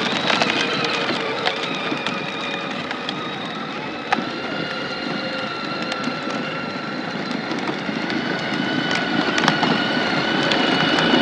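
ATV (four-wheeler) engine running steadily, with a faint whine and scattered light ticks and knocks.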